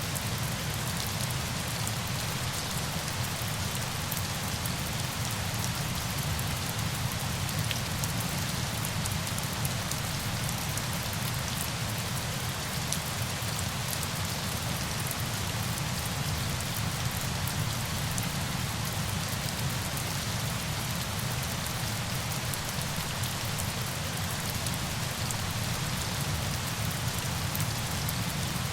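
Steady falling water: an even rush with a fine patter of drops.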